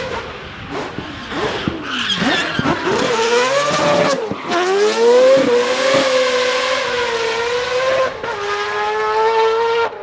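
Mazda rotary-engined drift car revving hard with tyre squeal. The engine note climbs, drops sharply about four seconds in, climbs again and holds high, then falls a little near the end.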